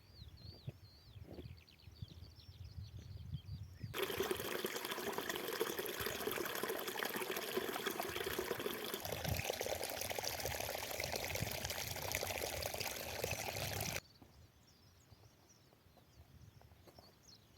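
Running water, an even rush that starts abruptly about four seconds in and cuts off just as suddenly about ten seconds later. Faint high bird chirps are heard before and after it.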